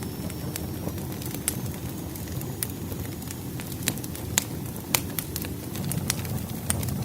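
Burning firewood: a steady low rumble of flame with irregular sharp pops and crackles, a few of them louder about four to five seconds in.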